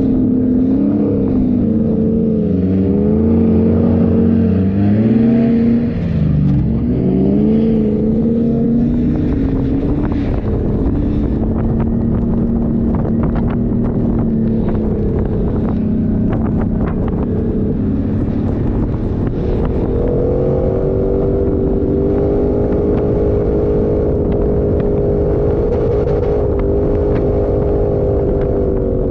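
A 4x4's engine running under changing throttle while driving off-road. Its pitch dips and rises several times in the first third, then holds steady and higher from about two-thirds in. Scattered knocks and rattles run through the middle stretch.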